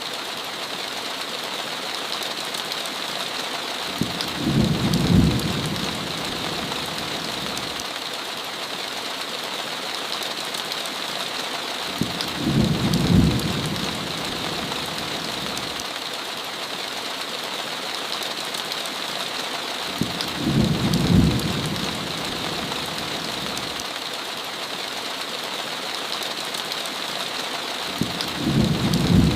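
Steady heavy rain hiss, with a short low rumble of thunder about every eight seconds, four times in all.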